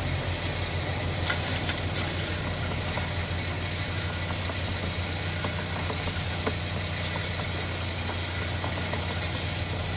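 Steady low mechanical hum, like a motor or engine running, with a few faint clicks.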